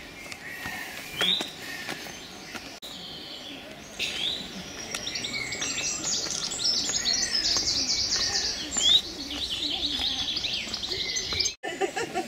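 Small songbirds singing and chirping, with rapid high trills that grow dense from about four seconds in. The sound drops out briefly near the end.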